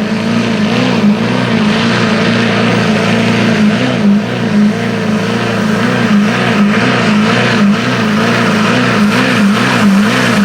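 Pulling truck's engine at full throttle hauling the sled down the track: revs held high, wavering up and down about twice a second under the load.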